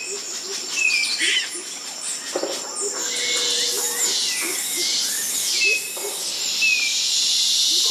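Animals hissing in a run of sharp bursts from about halfway in, over high chirping and short whistled calls.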